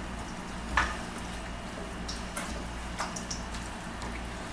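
Marinated chicken pieces being mixed in their liquid marinade, wet handling sounds with a few short clicks, the sharpest about a second in.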